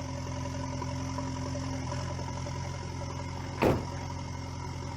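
A vehicle engine running steadily at idle, with one short sharp sound about three and a half seconds in.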